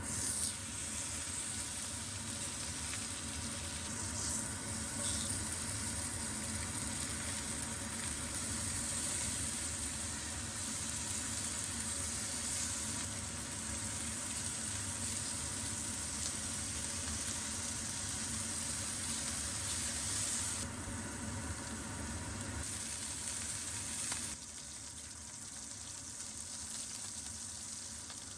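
Food sizzling as it fries in a hot pan: a steady, crackly hiss that eases off near the end.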